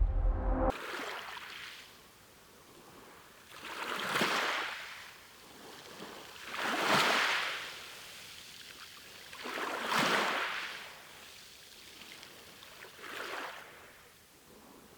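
Water rushing in swells about every three seconds, each rising and falling away like waves washing in.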